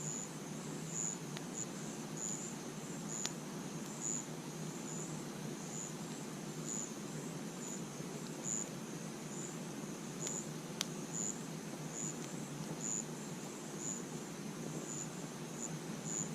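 Crickets chirping, a run of short high chirps about one or two a second, with a few sharp campfire crackles over a steady low hiss.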